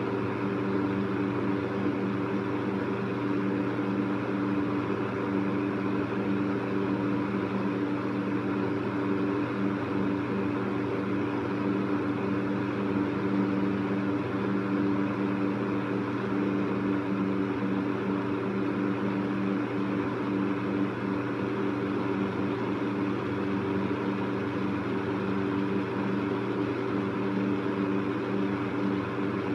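Electric fan running steadily: the even rush of moving air over a constant motor hum.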